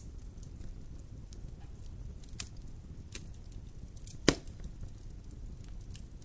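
Wood fire in a fireplace crackling, with a low steady rumble of the flames, scattered small snaps, and one loud pop about four seconds in.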